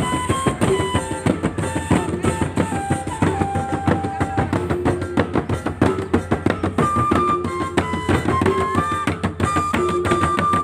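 Mandailing gordang sambilan ensemble playing: dense, fast drumming on the set of tuned drums, with a melody of held notes over it.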